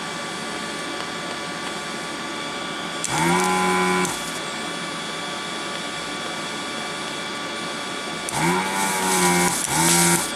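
Vacuum pump of a Pro'sKit SS-331 desoldering station buzzing in three short bursts as it sucks molten solder: one about three seconds in, then two close together near the end. A steady hum runs underneath.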